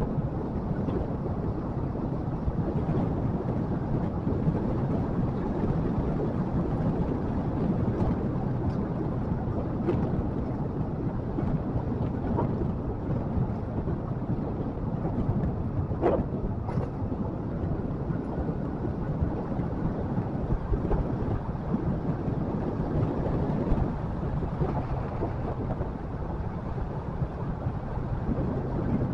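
Motorcycle on the move: a steady engine hum under a heavy low rumble of wind on the microphone, with one brief click about halfway through.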